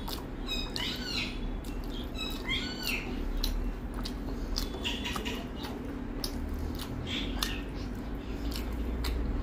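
Close-miked eating sounds: wet chewing and lip smacks as mouthfuls of rice and curry are eaten by hand, with fingers squishing through the rice. They come as a run of short, irregular clicks and smacks.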